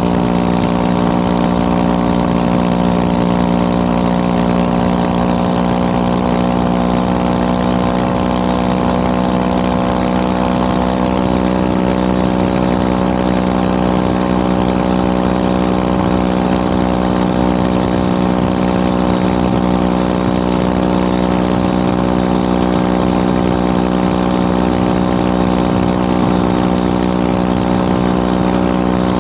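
Motorcycle engine and exhaust running steadily, holding one unchanging pitch throughout.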